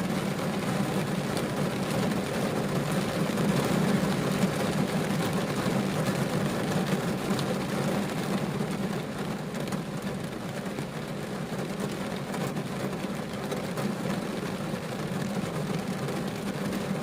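Rain falling on a car's roof and windows, heard from inside the car: a steady patter with a low hum, a little softer from about halfway through.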